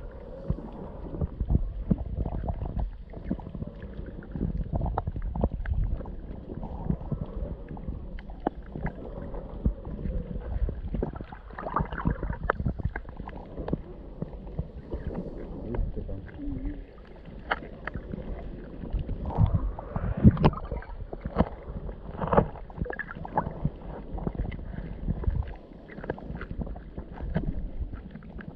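Sea water sloshing and gurgling around a camera held in the water, with many irregular knocks and splashes.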